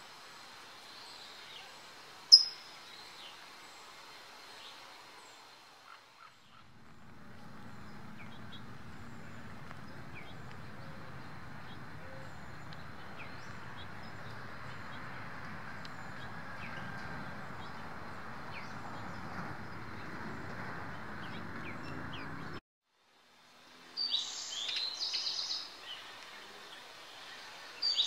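Small birds chirping outdoors: scattered short chirps, one loud sharp chirp about two seconds in, and a quick run of high chirps near the end. For most of the middle, a steady low background noise runs under them and stops abruptly.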